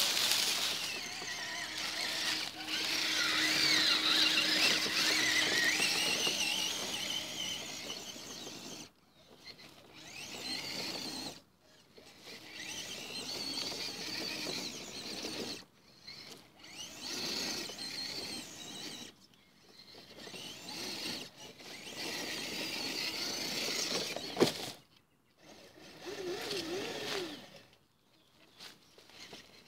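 Electric motors of radio-controlled off-road trucks whining in throttle bursts, rising and falling in pitch, with short gaps between bursts. A single sharp knock about 24 seconds in.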